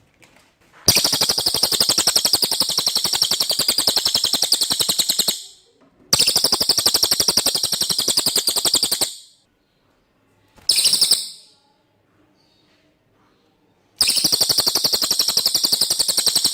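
Cililin bird song: long, fast trills of rapidly repeated high notes, each held for about three to four seconds, three times, with one short burst in between.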